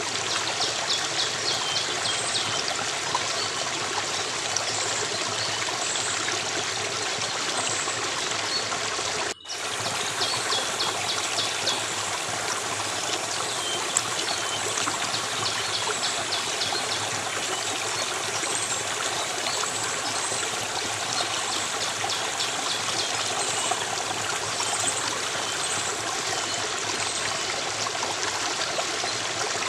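A steady flowing stream, with a small bird's rapid high trill breaking in several times, each trill a second or two long. The whole sound cuts out for an instant about nine seconds in.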